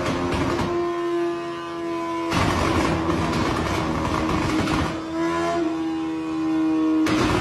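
Motorcycle engine revving, with two loud surges: one about two seconds in that lasts a few seconds, and another near the end.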